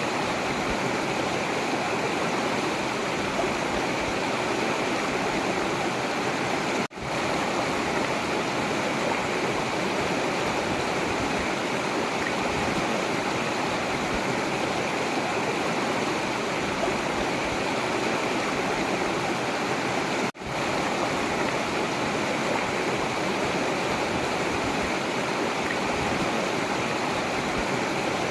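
Forest river running: a steady, unbroken rush of flowing water, with two momentary dropouts in the sound about seven and twenty seconds in.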